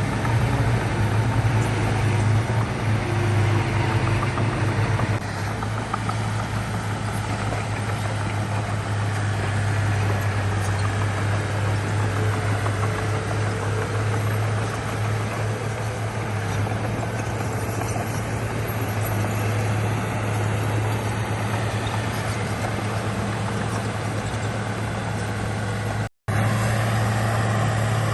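Diesel engine of heavy earthmoving machinery running steadily with a deep hum. It cuts out for an instant about two seconds before the end.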